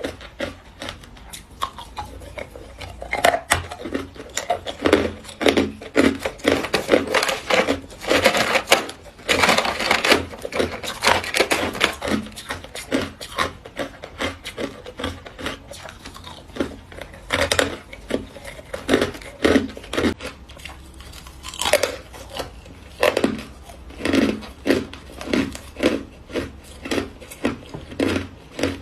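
A person biting and chewing hard ice, with many sharp crunches in a loose rhythm. There is a dense run of continuous crunching about a third of the way in.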